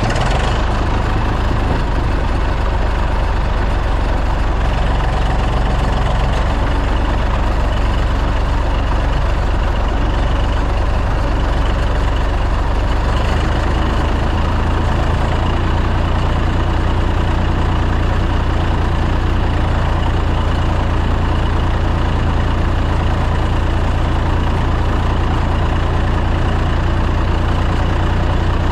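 Tractor engine running loud and steady.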